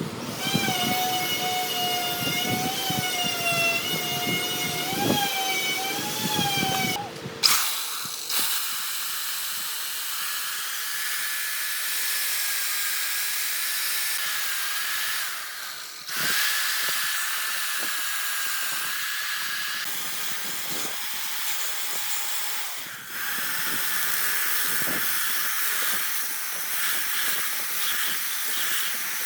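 Chainsaw engine running at high revs, its pitch rising and falling as it cuts, for about seven seconds. Then it gives way to a steady hissing power tool with a high whine that stops and restarts twice.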